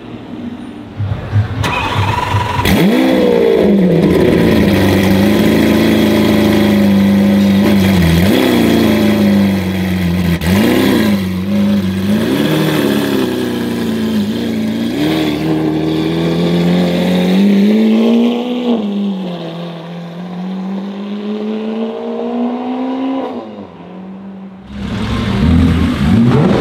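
Lamborghini Aventador SV's V12 through a straight-pipe Fi exhaust, loud, revved in a series of sharp blips that rise and fall, then in two longer, slower climbs that drop back. Near the end it cuts off and another car's engine revs.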